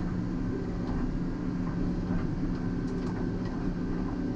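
Volvo EC140EL excavator's diesel engine running steadily, heard from the cab, with a few light knocks as the bucket and tilting hitch are rocked side to side; the hitch has a lot of play, which the operator thinks is something loose inside.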